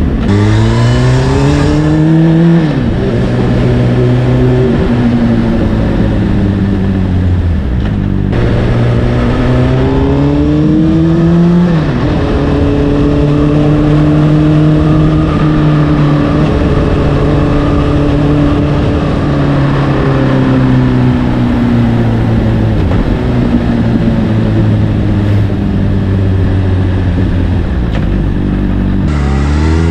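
Honda CBR600RR inline-four running through an Akrapovic exhaust under way. The revs climb and are cut at gear changes near the start and about twelve seconds in, hold fairly steady for a stretch, ease off, then climb again near the end, with steady wind rush throughout.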